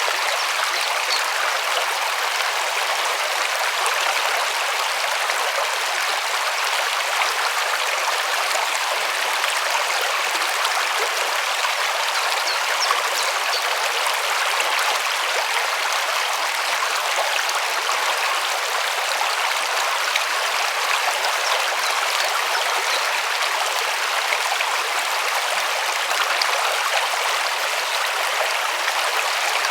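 River water running over stones: a steady rushing and babbling with fine splashes, even throughout.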